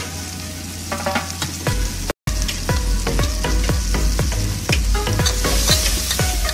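Onion-tomato masala frying in oil in an aluminium pot, sizzling, while a steel ladle stirs and scrapes against the pot. The sound cuts out for a moment about two seconds in.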